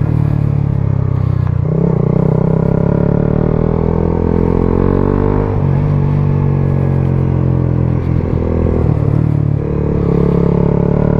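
Suzuki GSX-S 125 single-cylinder four-stroke with a Mivv GP Pro exhaust, running while riding. The engine note dips and climbs again a few times, about 1.5 s, 5.5 s and 9 s in.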